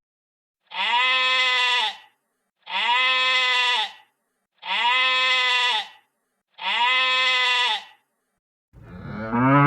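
Sheep bleating four times, identical calls about a second and a half long, spaced about two seconds apart. Near the end a lower cow moo begins, rising in pitch.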